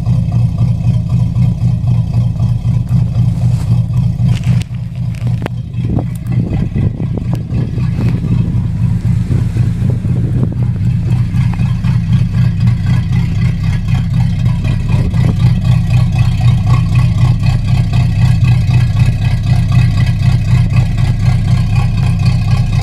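Chevy 350 small-block V8 running through Summit Racing headers and Flowmaster Super 10 mufflers on a dual exhaust, with a steady deep note. About five seconds in the level dips briefly and there are a few sharp clicks, and later the exhaust note grows louder and brighter.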